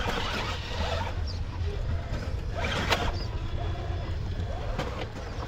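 Electric RC rock crawler picking its way over rocks: a small motor whirring up and down in pitch, with a sharp scrape or knock about three seconds in, over a steady low rumble.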